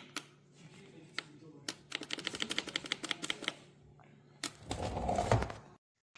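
A scatter of sharp clicks, then a quick run of rattling clicks, about ten a second for a second and a half. A louder rustling knock follows near the end, then the sound cuts off.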